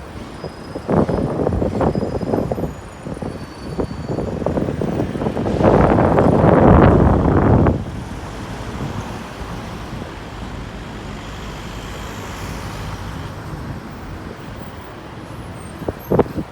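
Wind buffeting the microphone in two loud, rough gusts, about a second in and again from about the middle, over a steady outdoor background.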